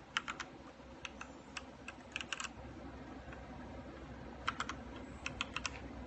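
Keys of a DareU EK87 V2-series mechanical keyboard being typed on: short runs of sharp key clicks in three groups with pauses between them.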